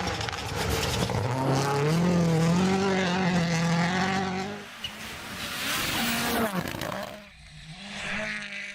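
Rally car engine revving hard, its pitch climbing and falling with the throttle and gear changes. The level drops briefly just past halfway, the engine picks up again, then fades somewhat near the end.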